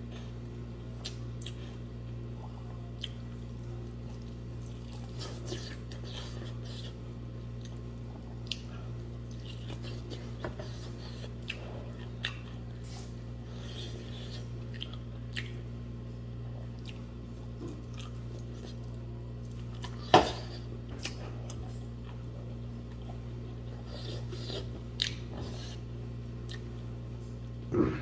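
Close-up eating sounds: a person chewing and biting buffalo-leg meat and rice, with small wet smacks and clicks throughout and a sharper click about twenty seconds in and again near the end, over a steady low hum.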